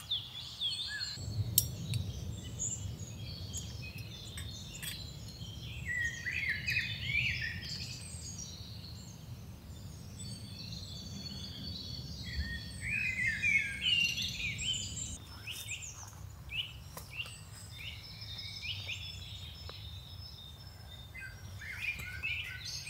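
Several wild songbirds chirping and singing in quick, overlapping phrases. A low rumble sits underneath from about a second in until about two-thirds through, with a few sharp clicks.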